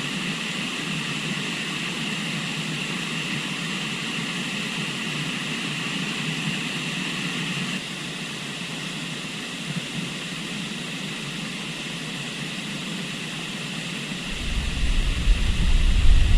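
Steady rush of a flowing river. About two thirds of the way in, wind starts buffeting the microphone with a low rumble.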